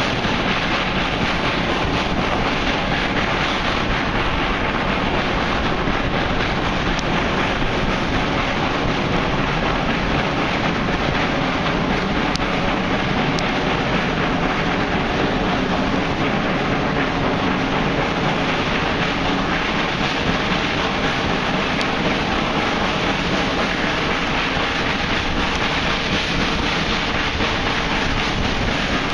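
Railway carriage running along the line, heard from an open window: a steady rush of wind over the microphone over the rumble of the coach, with a few faint clicks.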